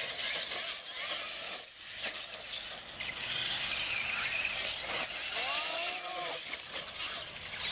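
Battery-powered radio-controlled monster trucks racing at full throttle: their electric motors and drivetrains whine with a steady high hiss.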